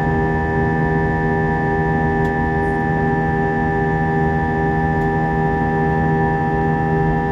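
Steady cabin drone of a Boeing 737 in flight: an even engine and airflow rumble with a constant hum of steady tones over it.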